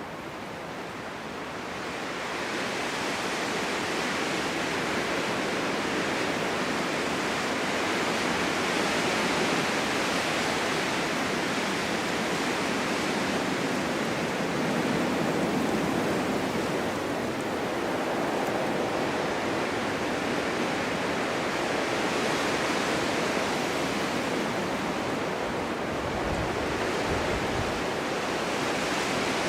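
Strong winter wind blowing in a snowstorm, a steady rushing noise that builds over the first couple of seconds and then swells and eases slowly in gusts.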